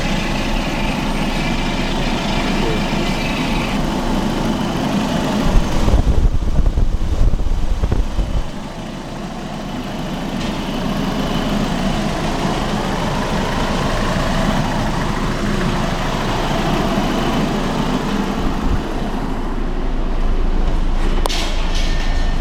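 Audi CAEB 2.0 TFSI turbocharged four-cylinder petrol engine running at idle. There is a louder stretch of about three seconds, starting around five and a half seconds in.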